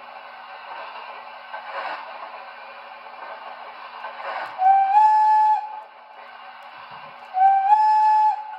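O scale model steam locomotive's electronic sound system blowing its steam whistle twice, two blasts of about a second each with a slight upward step in pitch at the start, over a steady running hiss with a few slow chuffs.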